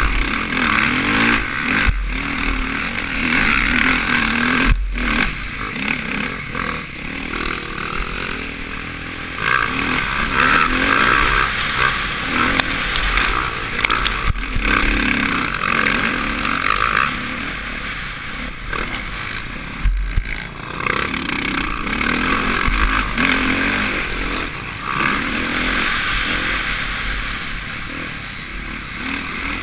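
Suzuki RM-Z450 motocross bike's single-cylinder four-stroke engine being ridden hard, its revs rising and falling with the throttle and gear changes, with brief cuts of the throttle about five, fourteen and twenty seconds in. Heard from a helmet-mounted camera, with wind rush.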